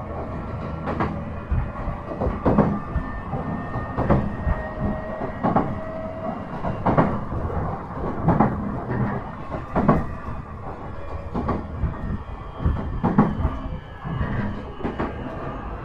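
JR E131 series 1000 electric commuter train running along the line, heard from inside the car: a steady rumble with sharp wheel clicks over rail joints about every one and a half seconds.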